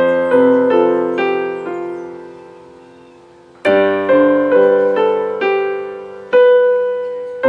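Keyboard with a piano sound playing three chords, one at the start, one a little past halfway and one near the end, each a single low bass root under a full right-hand chord broken into a quick little arpeggio. It is a voicing that keeps the low register light, with only the fundamental in the bass.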